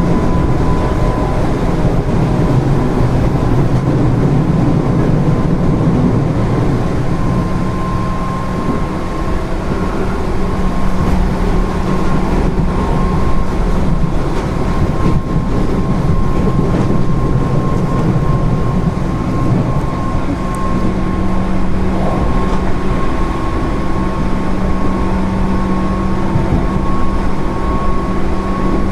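JR West 205 series 0 electric train with field-added excitation control, running at a steady speed. A steady hum and whine sit over continuous wheel-on-rail noise.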